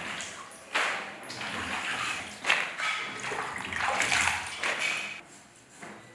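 Water splashing and running in uneven surges.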